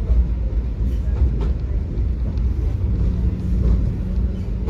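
Tram running along its line: a steady low rumble of wheels and running gear, with a steady motor hum coming in about three seconds in.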